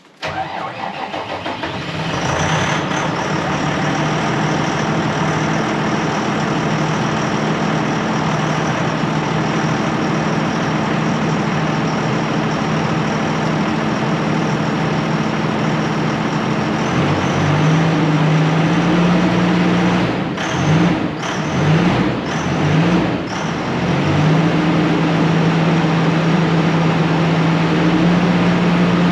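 The 820 tractor's diesel engine catching and running on a frosty-morning cold start. It builds up over the first couple of seconds, then runs steadily. Past the middle the engine speed rises, dips and rises a few times, then holds steady at the higher speed.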